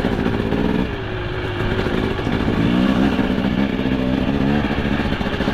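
2025 KTM 300 XC two-stroke dirt bike engine running under load while being ridden, its revs rising about two and a half seconds in and then holding steady.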